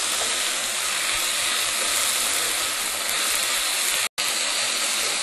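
Chicken pieces sizzling steadily in hot oil in a stir-fry pan on high heat. The sound cuts out for a split second a little after four seconds.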